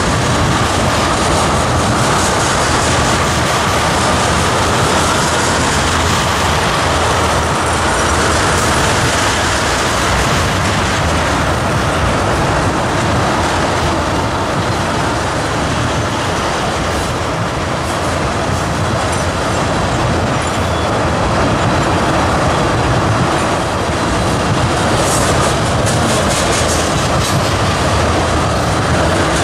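Freight train of tank cars rolling past close by: a steady rumble and clatter of steel wheels on the rails. A faint high wheel squeal wavers through the first ten seconds or so.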